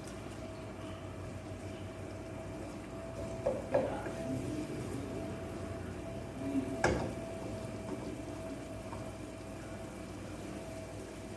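Onions and garlic frying in hot oil in a pan, a steady sizzle. Two short knocks, about four and seven seconds in.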